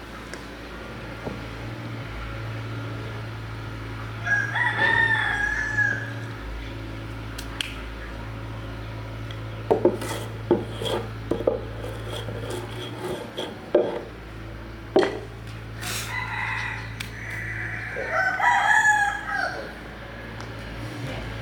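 Rooster crowing twice, about four seconds in and again near the end, with a few sharp knocks in between and a steady low hum underneath.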